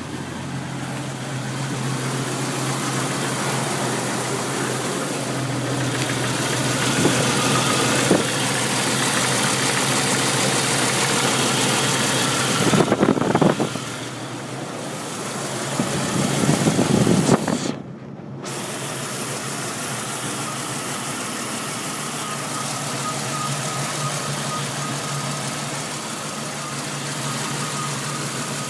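Car engine idling roughly, with a steady low hum. It swells louder twice, around 13 and 17 seconds in, and drops out for a moment at about 18 seconds before settling back into the same steady idle.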